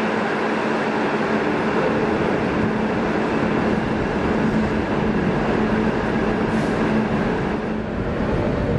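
Sydney Trains electric train running at a steady level, a continuous rumble of wheels and running gear with a faint low hum.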